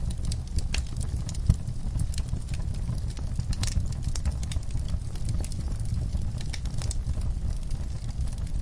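Wood fire crackling in a fireplace: irregular small pops and snaps over a steady low rumble, with one sharper pop about a second and a half in.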